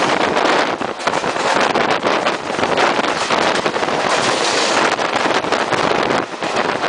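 Steady rush of wind on the microphone and a dense clatter of express-train coach wheels over rails and points at speed, heard through an open coach window. In the second half a suburban electric train passes close alongside on the next track.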